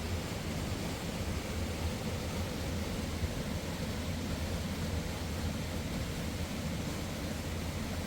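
Steady rushing noise of a river and waterfall, an even hiss with a deep low rumble underneath.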